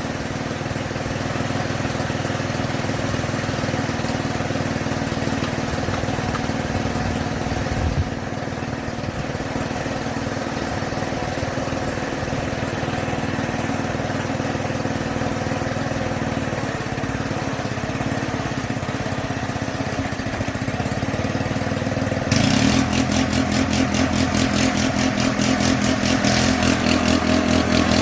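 A small machine motor running steadily, with a mechanical hum. About 22 seconds in it gets louder and takes on a fast, even pulsing.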